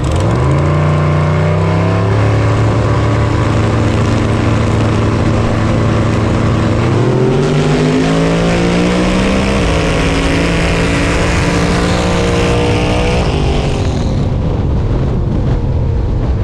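Car engine under hard acceleration: its pitch climbs at the start, holds, dips and climbs again about seven seconds in, then falls away as the throttle is let off near the end.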